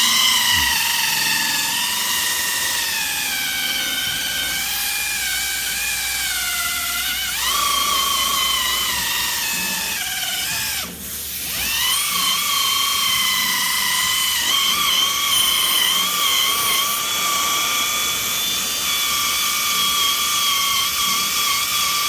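Small 3M electric buffer with a wool pad polishing compound on a plastic headlight lens, running as a steady high whine whose pitch sags and rises with the pressure on the pad. About 11 seconds in it slows almost to a stop, then spins back up.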